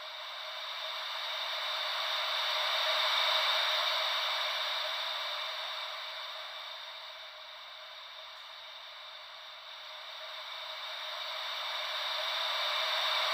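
Gentle ocean-wave white noise: a soft, even hiss with no deep rumble that swells and fades slowly, one swell peaking about three seconds in and the next near the end.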